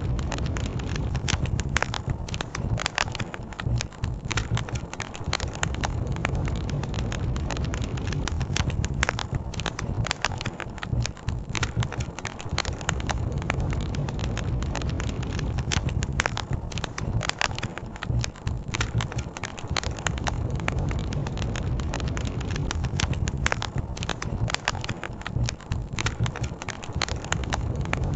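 Wood campfire crackling, with frequent sharp pops and snaps, over a steady low rush of river water.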